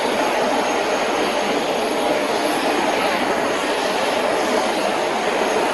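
Jet airliner engine noise, steady and loud, with a faint high whine above it.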